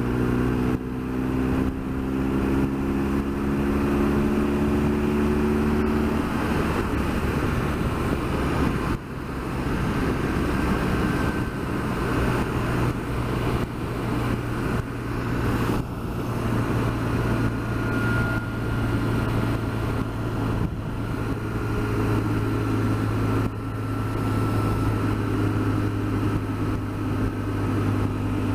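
BMW R1200GS Adventure's flat-twin engine running under way, heard from the moving bike with steady wind and road rush. The engine note rises slowly in pitch over the first few seconds as the bike gathers speed, with a few brief dips in loudness later on.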